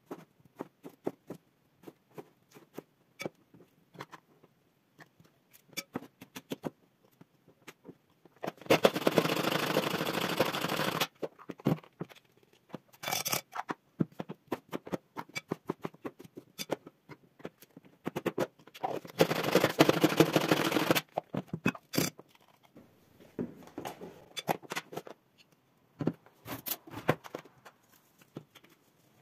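Kitchen handling sounds: scattered light clicks, knocks and scrapes of utensils and dishes, interrupted twice by a steady rushing noise lasting about two seconds each.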